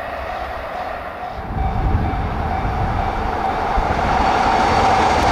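Electric train running at speed on the rails. A deep rumble builds about a second and a half in, and the sound grows louder toward the end.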